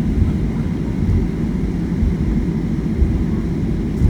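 Steady low rumble of cabin noise inside a Boeing 737-800 on the ground after landing, with a few soft thumps.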